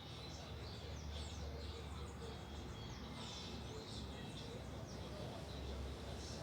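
Several small birds chirping and calling in quick, overlapping high notes, some as fast falling sweeps, over a low steady rumble.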